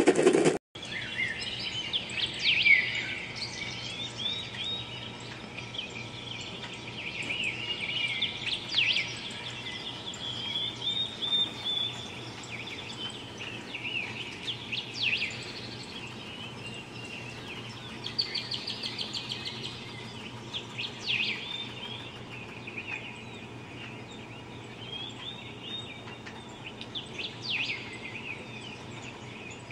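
Recorded birdsong played through a small portable speaker: a chorus of short chirps and whistled calls. It starts just under a second in.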